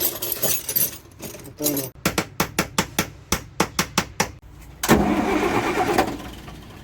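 Diesel engine of a 2001 Ashok Leyland bus being cold-started after five years standing: a rapid even clatter of about five beats a second, then the engine catches about five seconds in with a burst of louder, rough running that dies away.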